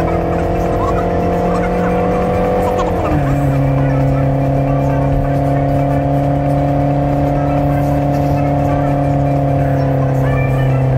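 Mercedes V8 engine running steadily under load, heard from inside the car with road noise beneath it. About three seconds in its note drops sharply as it shifts up a gear, then it holds a lower, steady pitch.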